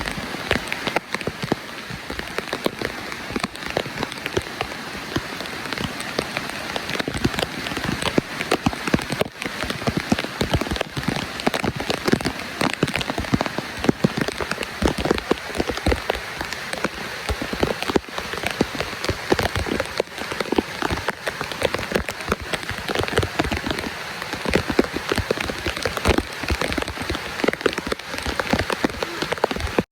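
Falling water splashing in a dense, steady patter of countless small drops.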